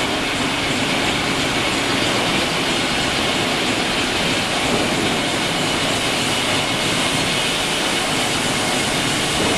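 Electric bogie hearth furnace car rolling on its rails back into the furnace, a steady, even rolling and running noise.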